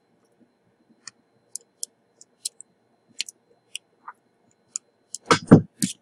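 Scattered light, sharp clicks and ticks of small parts being handled at a repair bench, about one every half second, then a few louder knocks and bumps near the end.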